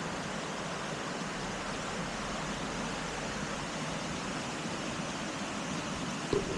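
Waterfall water rushing steadily, with a short knock near the end.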